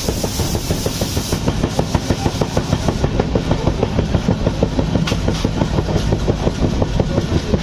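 Express passenger train running at speed, heard from an open coach door: the wheels clatter over the rail joints in a rapid, even rhythm of about four knocks a second over a low rumble. A rush of wind is strong at first and drops away after about a second and a half.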